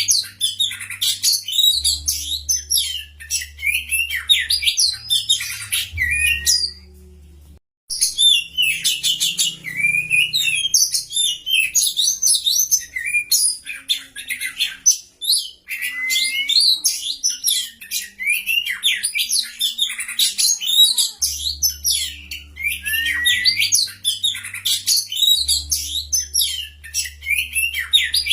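Fast, dense songbird twittering of quick rising and falling chirps, a bird-song recording played as masteran to bring caged oriental magpie-robins into song. The song breaks off for about a second some seven seconds in, then resumes.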